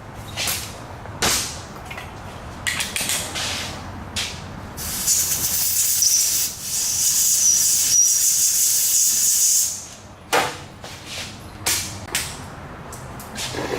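Scattered clinks and taps of hand tools, then a steady, high hiss of a pressurised spray for about five seconds, starting about five seconds in, followed by more clinks and taps.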